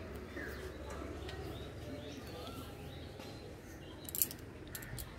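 Birds chirping faintly and intermittently outdoors, over a low steady background hum. A sharp click comes about four seconds in, with a couple of fainter ticks just before the end.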